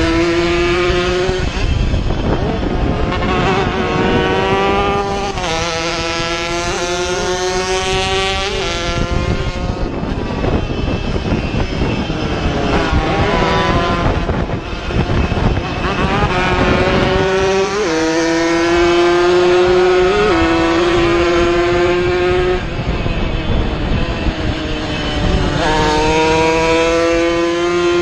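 Two-stroke racing motorcycles running hard at high revs, their engine note climbing through the gears, dropping at each shift and climbing again, several times over.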